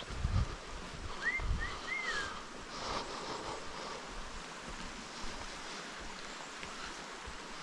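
Outdoor woodland ambience: a steady rushing of wind with low gusts buffeting the microphone near the start, and a bird whistling three short rising-and-falling notes about a second and a half in.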